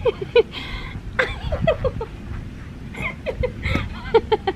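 A person laughing in short bursts, several times over.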